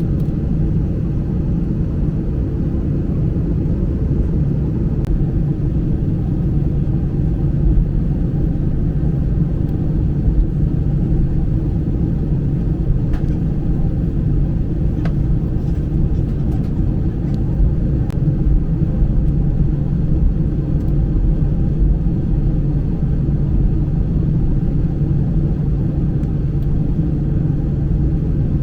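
Steady low rumble and hum heard inside the cabin of an Airbus A320 airliner on the ground before takeoff, with a few faint ticks.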